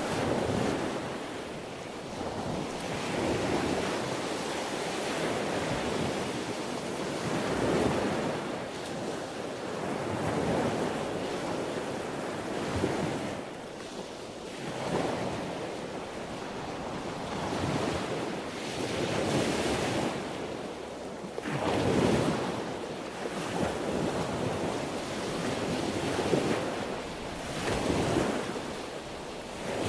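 Sea waves breaking and washing on a shore, the surf swelling and falling back every two to four seconds.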